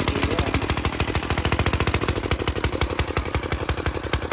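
Small single-cylinder Briggs & Stratton engine on an antique Eclipse reel mower running steadily, firing in rapid, even pulses.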